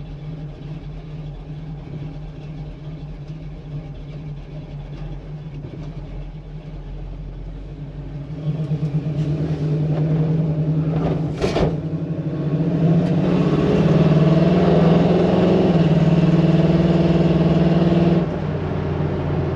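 1968 Chevrolet Camaro's engine heard from inside the cabin on the road: running steadily at first, then pulling harder and louder from about eight seconds in, with one brief sharp knock partway through. It builds again for several seconds, then drops back suddenly near the end.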